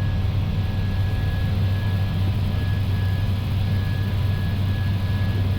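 Steady flight-deck noise of an Airbus A320 in the climb: a constant low drone with a faint steady high whine above it.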